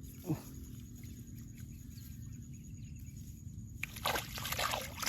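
Water splashing and sloshing in irregular bursts, starting about four seconds in, over a quiet low background.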